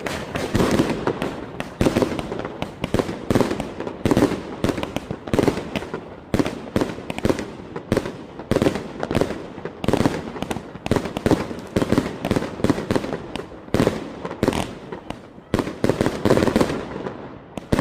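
Göteborgs Fyrverkeri "Red To Titanium" fireworks firing: a rapid, irregular string of loud bangs, several a second.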